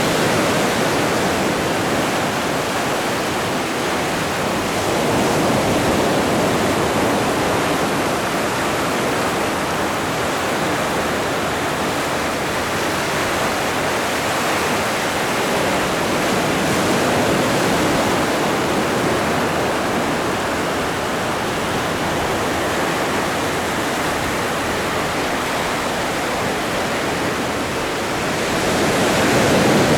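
Atlantic Ocean surf: a continuous rush of breaking waves that swells gently every several seconds.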